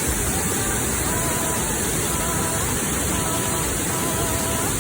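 Steady rushing of falling water, a waterfall's even roar with a strong high hiss. Faint short held tones come and go behind it.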